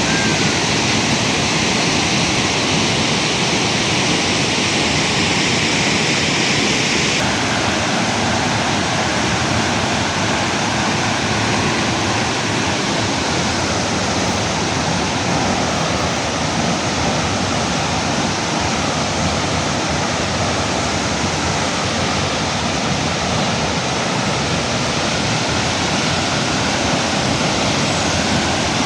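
Waterfall pouring, a steady loud rush of water with no other sound standing out; the rush changes slightly in character about seven seconds in.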